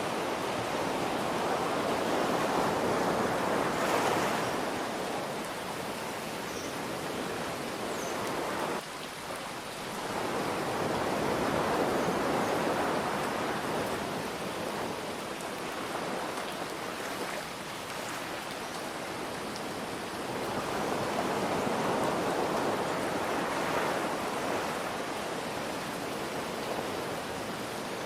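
Ocean waves breaking and washing ashore in slow swells, three surges about nine seconds apart, over a steady hiss of rain.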